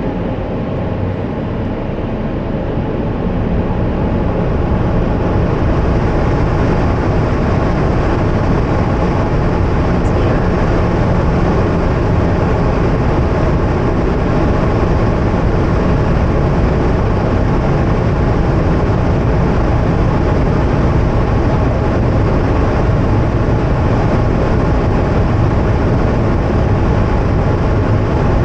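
Automatic car wash air dryer blowers running, a loud steady rushing noise heard from inside the car. It builds over the first few seconds, then holds level.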